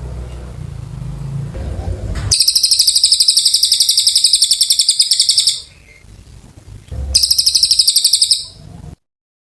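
Cililin songbird singing long, very rapid high-pitched trills: one of about three seconds, a short pause, then another of about a second and a half. A low rumble sits under the first two seconds, and the sound cuts off abruptly near the end.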